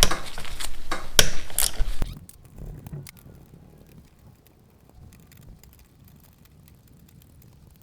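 Clicks and clatter of hand tools working on motorcycle parts for about two seconds, then only a few faint ticks.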